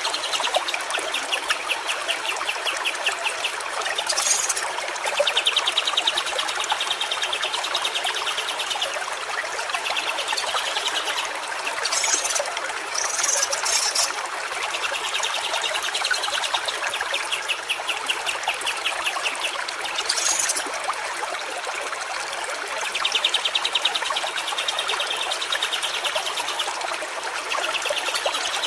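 A stream trickling steadily, with a bird's rapid trilling phrases repeated every few seconds and a few short, sharp high calls.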